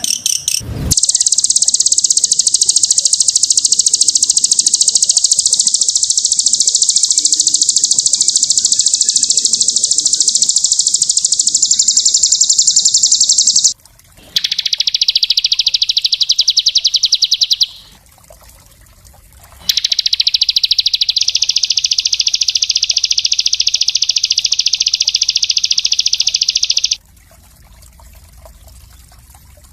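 Small songbird singing a very fast, dense, high-pitched trill in long unbroken bursts: one of about 13 seconds, then a short one of about 3 seconds, then one of about 7 seconds, with brief pauses between.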